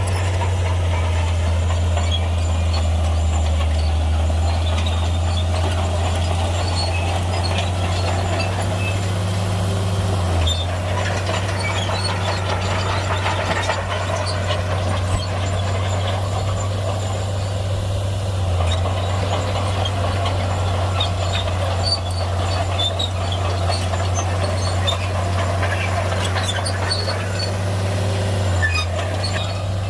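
Heavy Shantui crawler bulldozer's diesel engine running steadily with a deep, even drone, with scattered clanks from the machine as it works.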